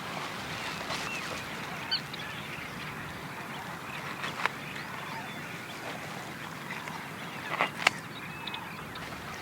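Birds calling, in short calls over a steady background hiss, with a few sharp knocks; the loudest knocks come about eight seconds in.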